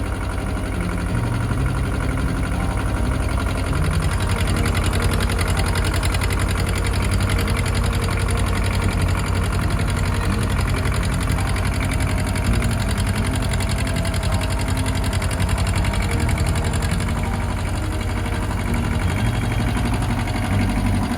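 Ford 1700 compact tractor's three-cylinder diesel engine running steadily under load, with a heavy saw log lifted on the front loader's clamp-on pallet forks.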